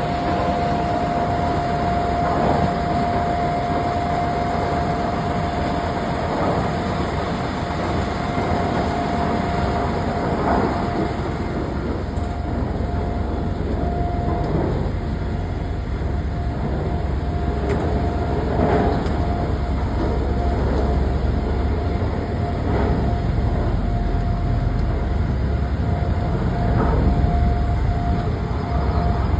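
Heavy machinery running steadily: a continuous low engine rumble with one constant whine held at the same pitch.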